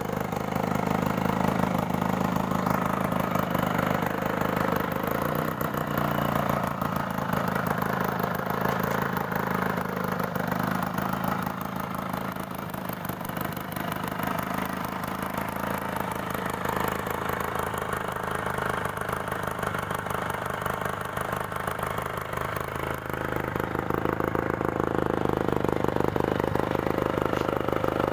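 Yamaha L2 Super two-stroke motorcycle engine idling through a car exhaust muffler. The revs waver a little and pick up, running louder, near the end.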